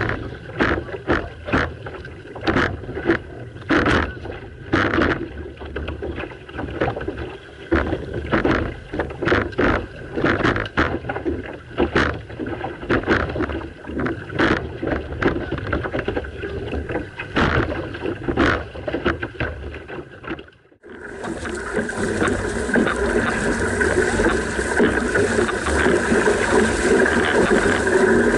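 Canoe paddles pulling in stroke: a steady rhythm of blades catching and splashing in the water. About 21 seconds in it cuts off sharply and gives way to a steady rush of water and wind on the microphone.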